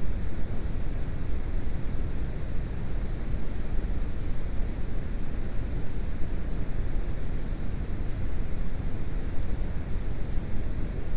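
Steady rumbling noise with no pitch or rhythm, strongest at the low end.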